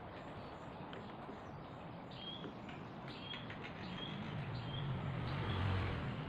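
Small birds chirping in the background, a series of short high chirps over a steady background hiss.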